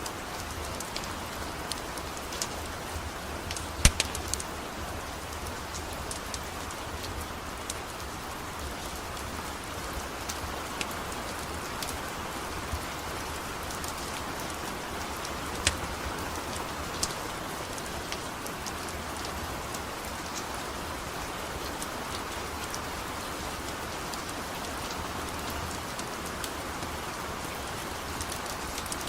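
Steady rain falling, an even hiss with scattered sharp pops and crackles; the loudest pop comes about four seconds in.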